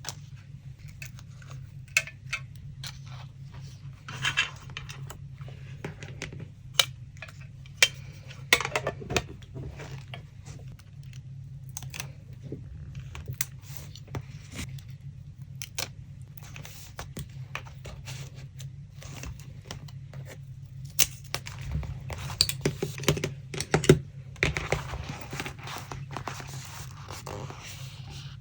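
Paper crafting sounds: paper being handled, rustled and torn, with scattered small clicks and taps on the desk. A steady low hum runs underneath.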